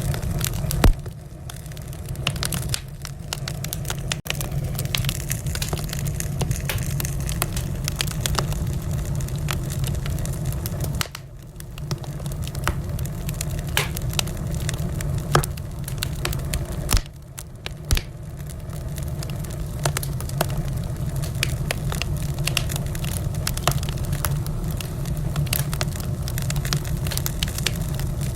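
Wood fire crackling in a fireplace: many scattered sharp snaps and pops over a steady low rumble of the burning fire, with a couple of louder pops.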